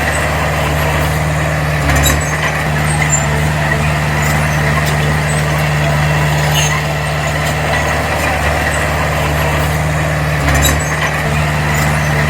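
Diesel engine of a D20P bulldozer running steadily under work, a constant low hum. The engine note shifts briefly about two seconds in and again near the end.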